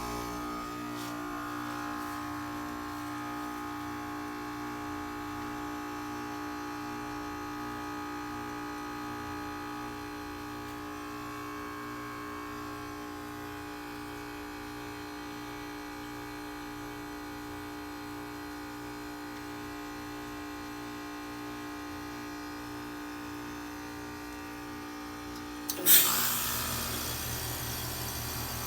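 A steady electrical machine hum made of several fixed tones, the strongest one low-pitched. About 26 seconds in, a sudden loud knock cuts it off and a steady rushing noise takes over.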